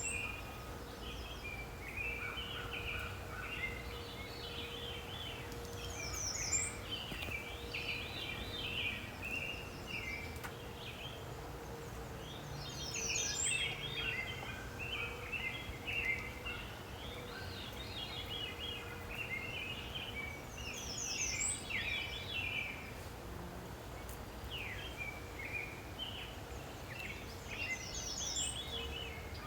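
Songbirds singing outdoors, with many chirps and one bird repeating a song phrase of quickly rising notes about every seven seconds. A steady low rumble and a faint steady hum lie underneath.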